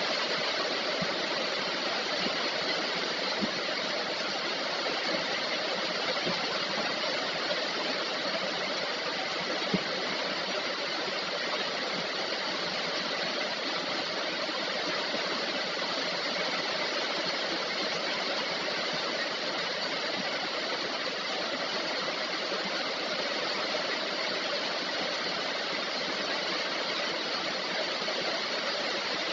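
Steady heavy rain falling, an even hiss with no let-up, with a single sharp tick about ten seconds in.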